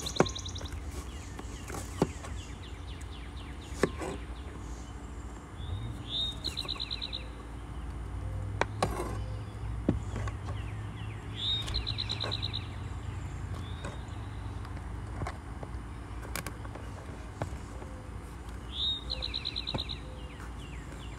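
A songbird singing the same short phrase three times, a quick rising note running into a fast trill, each about a second long. Between the songs come a few sharp knocks of a kitchen knife against a cutting board as fruit is cut, the loudest being near the start.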